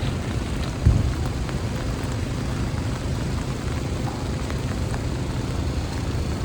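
Rainy city street ambience: a steady low rumble of traffic under the hiss of rain and wet roads, with a single thump about a second in.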